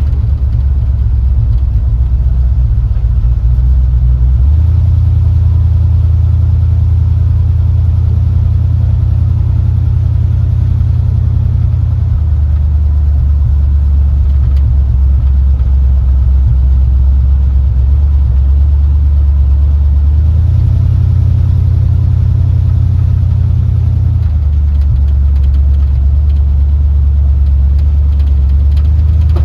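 Small-block Chevy V8 in a hot-rod pickup running steadily with a deep, loud exhaust note during a drive. The note steps up in pitch about four seconds in, drops back around twelve seconds, rises again around twenty seconds and drops near twenty-four.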